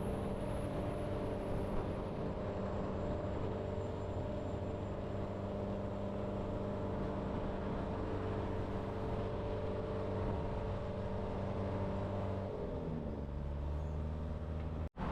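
Motor vehicle engine running steadily with a low hum; about twelve seconds in the hum drops in pitch as the vehicle slows. The sound cuts out for a moment near the end.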